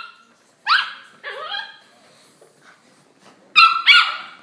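Pembroke Welsh Corgi puppy whining and yipping in short high calls that slide down in pitch: two calls in the first couple of seconds, then a louder pair near the end.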